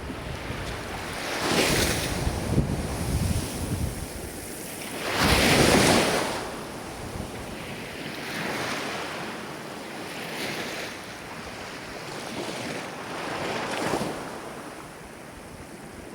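Ocean waves breaking and washing in, the surf rising and falling in several surges. The biggest wave breaks about five seconds in.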